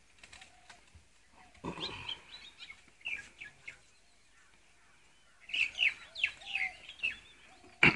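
Birds chirping in quick, short up-and-down notes, in two bouts, the second from about five and a half seconds in. A sharp knock sounds near the end.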